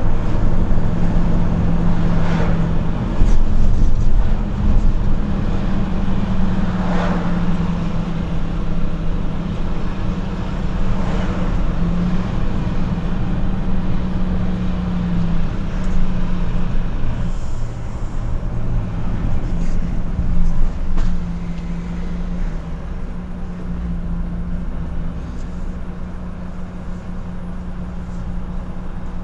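Truck engine and road noise while driving: a steady low drone with a few brief noisy swells.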